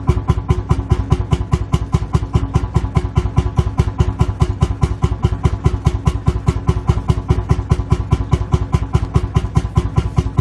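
Lanz Bulldog's single-cylinder two-stroke hot-bulb engine idling with its slow, even thumping beat, about five beats a second.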